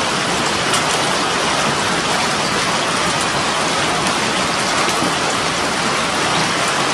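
A hailstorm with heavy rain: a dense, steady hiss of rain with scattered sharp ticks of hailstones striking the ground and nearby surfaces.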